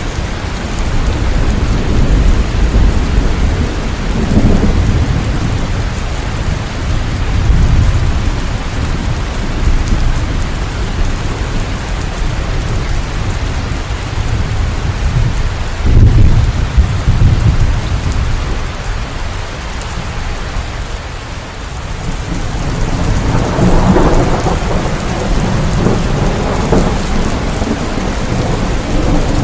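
Steady rain with a deep rumble underneath that swells and fades several times, strongest about sixteen seconds in.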